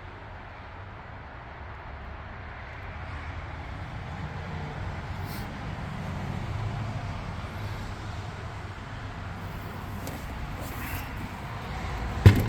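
Low rumble of a vehicle passing at a distance, swelling slightly midway and easing off, followed near the end by one sharp thump.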